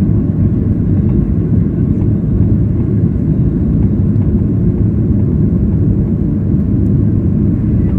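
Boeing 737-800's CFM56-7B turbofan engines running at high power during take-off, heard from inside the cabin as a loud, steady low rumble mixed with airflow noise.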